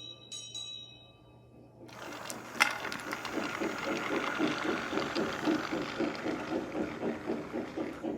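A bell rings and fades in the first second. From about two seconds in, a battery-powered TrackMaster toy train runs along its track with a steady motor whir and a rhythmic clatter, with a sharp click just after it starts.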